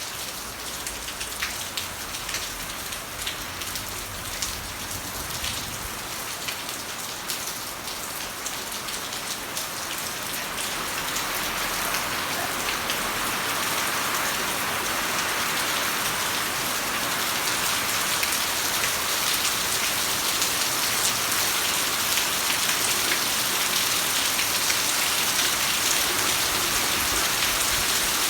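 Heavy rain falling steadily, with separate drops ticking sharply in the first ten seconds; the downpour grows louder about ten seconds in and then holds.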